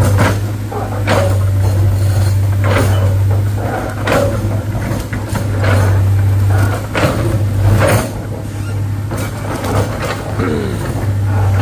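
Heavy diesel machinery running with a steady low engine hum, broken by repeated sharp metallic clanks and knocks.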